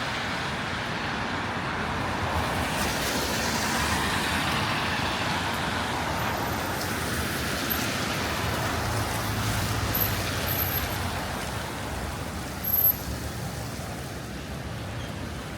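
City street traffic: cars passing with a steady tyre hiss on wet road. A heavier engine hum comes through about nine seconds in, and there is a brief knock near the end.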